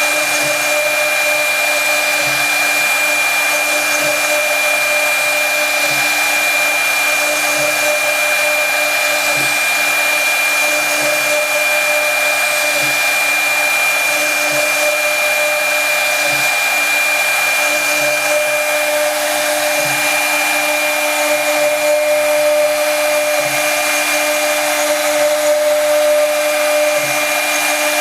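Brushless CNC spindle running at a steady high-pitched whine while milling wood, with a continuous cutting hiss over it.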